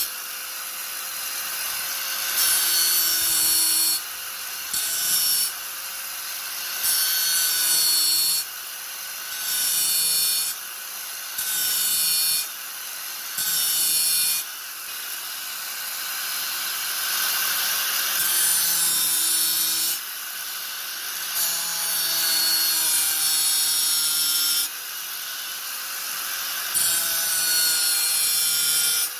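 Angle grinder running steadily, its disc biting into the workpiece again and again in grating bursts of one to three seconds, with the motor whining on between cuts.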